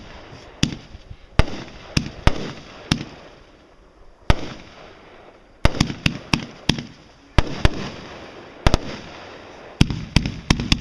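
Fireworks going off: about twenty sharp bangs at irregular spacing, each with a low rumbling echo, thinning out for a couple of seconds in the middle before coming thick and fast again.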